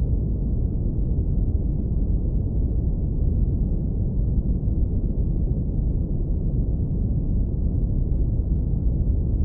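Synthetic brown noise filtered down to a deep, even rumble, with nearly all of its energy in the lowest bass and nothing bright on top. It runs steady and unchanging.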